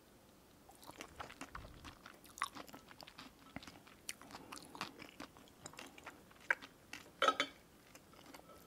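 Close-up crunchy chewing of a deep-fried rice paper roll filled with egg and cabbage, a quick run of crisp crackles and bites. Near the end comes a louder knock as wooden chopsticks are set down on the ceramic plate.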